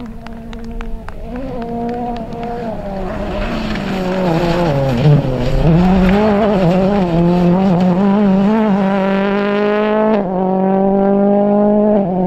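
Rally car engine pulling hard, growing louder over the first several seconds with its pitch wavering, then climbing steadily, with two brief drops in pitch about ten seconds in and near the end as it shifts up.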